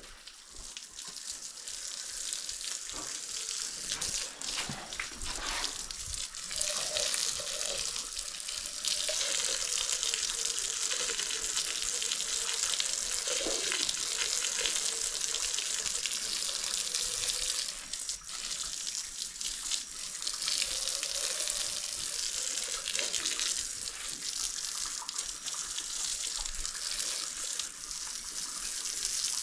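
Water spraying from a hose in a steady hiss while the horse is bathed. It gets louder about a third of the way in and briefly drops away about two-thirds through.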